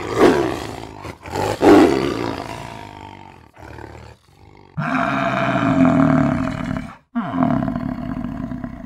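Tiger roaring: two short roars in the first two seconds, then a long, drawn-out roar about five seconds in lasting some two seconds, and another call after it that fades away.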